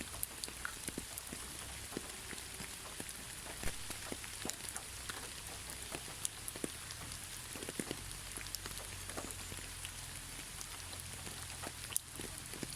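Gentle, steady rain, with individual drops striking close by at irregular moments among the even hiss of the downpour.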